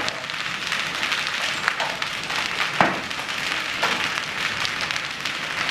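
Hailstones pelting hard surfaces in a heavy hailstorm: a dense, continuous clatter with a few sharper, louder strikes, the strongest a little under halfway through.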